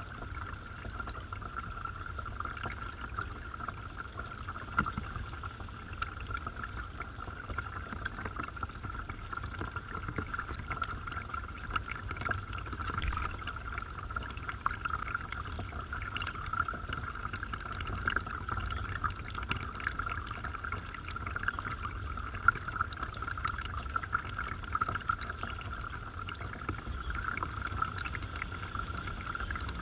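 Small garden waterfall pouring steadily, with scattered small splashes.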